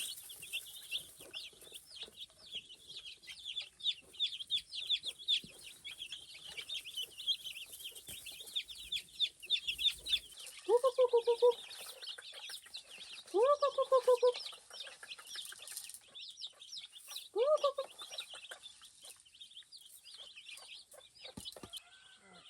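A flock of chickens: many chicks peeping rapidly and continuously, thinning out after about twelve seconds. Three louder, drawn-out calls come at about 11, 14 and 17 seconds in.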